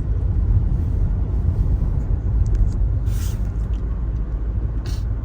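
Car driving on a snowy road, heard from inside the cabin: a steady low rumble of engine and tyre noise, with two brief hisses about three and five seconds in.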